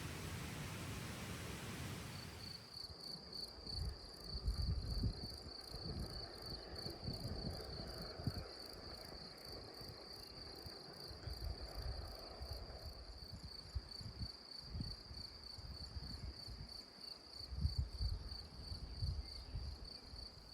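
An insect trilling continuously at a high pitch, a fast, finely pulsing chirr that starts about two seconds in after a short stretch of even hiss. Low gusts of wind rumble on the microphone underneath.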